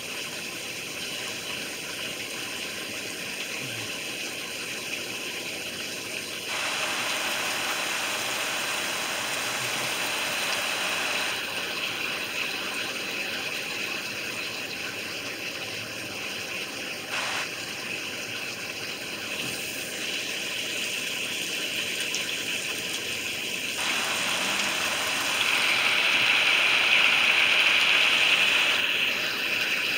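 Heavy rain pouring down in a steady hiss, swelling louder for a few seconds near the end.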